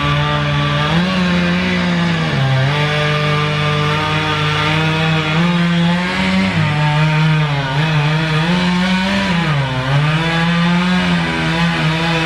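Chainsaw running hard. Its pitch wavers and sags as it works, dipping most deeply about two seconds in and again near the end.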